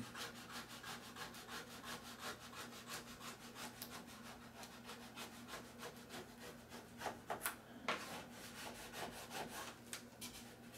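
A squeegee rubbing a self-adhesive vinyl insignia down onto the model's surface in quick repeated strokes, about three or four a second, to press out air bubbles. A few strokes about two thirds of the way through are harder than the rest.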